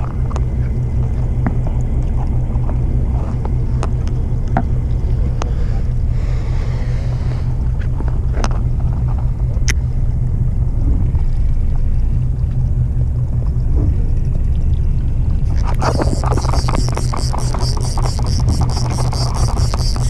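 A boat's engine running steadily, a constant low rumble, with a few scattered clicks. About four seconds before the end a fast, fine clicking with a hiss starts over it.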